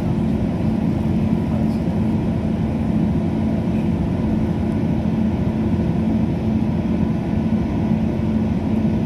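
Steady running noise of a passenger train in motion heard from inside the carriage: an even low rumble with a steady hum.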